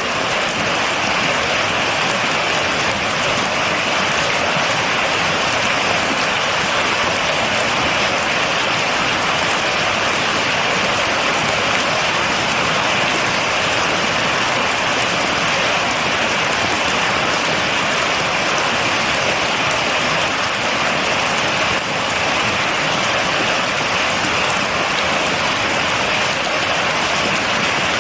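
Steady heavy rain falling without thunder, a dense even hiss with fine patter of drops on a surface.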